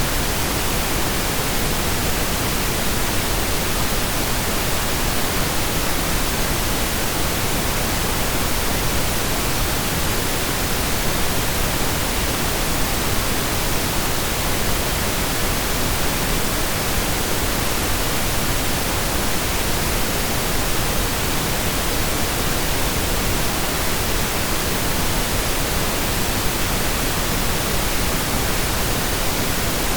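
Synthesized pink noise: a steady, even hiss spread across the whole range, like steady rain or a waterfall, with no changes.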